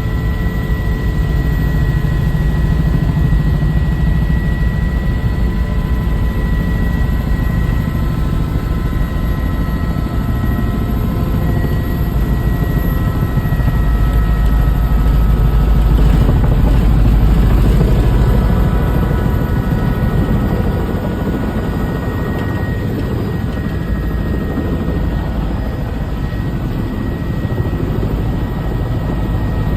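Helicopter in flight, heard from aboard: a steady deep rotor and engine drone with a constant whine over it, growing louder for a few seconds midway.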